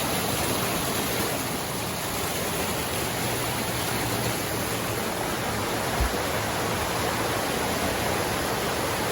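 Glacier-fed stream rushing, a steady even rush of water with no change in level. A brief low thump about six seconds in.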